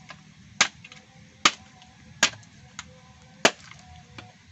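Chopping with a blade: four sharp strokes about a second apart and one lighter one, each a short hard knock.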